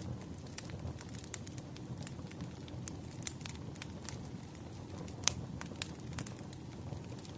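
Wood fire crackling: irregular snaps and pops of burning firewood over a low, steady rumble, with one louder pop about five seconds in.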